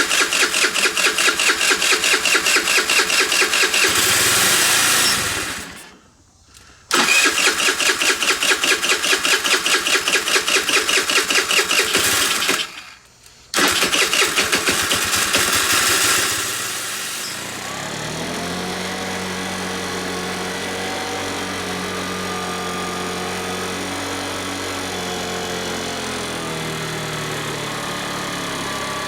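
50cc GY6 scooter engine being cranked over in three bursts with short pauses. It catches on the third try and settles into a steady idle whose pitch wavers slightly, started with a hand held over the carburetor as a makeshift choke.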